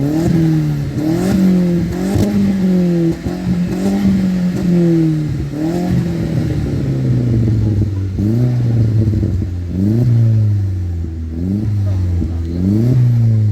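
Car engine revved over and over in quick throttle blips, the pitch jumping up sharply and falling back each time, about once a second with a lull in the middle.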